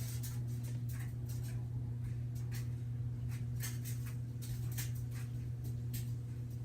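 Steady low hum with a few fainter higher tones over it, and scattered faint clicks and knocks.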